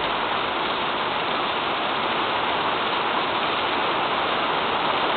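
Heavy downpour of rain pelting a wet paved road and grass, a steady, unbroken rush of water.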